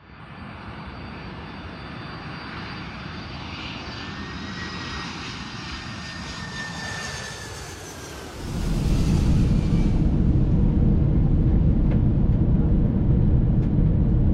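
Boeing 747-400 jet engines, a high fan whine over a rushing hiss, with one tone sliding down in pitch as the aircraft goes by. About eight and a half seconds in, the sound switches abruptly to a much louder, steady low rumble.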